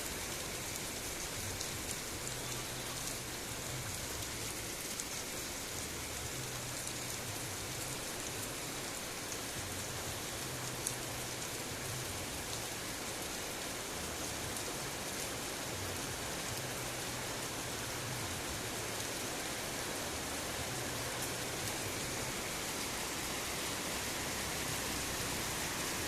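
Heavy rain falling steadily, with a dense even hiss and scattered ticks of individual drops.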